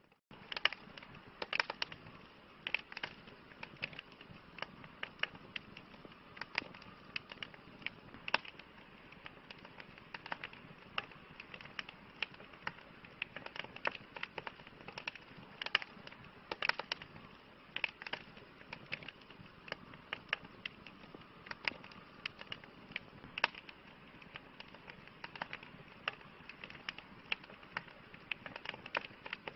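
Wood campfire crackling: a steady soft hiss with frequent, irregular sharp pops and snaps from the burning wood. There is a split-second dropout at the very start.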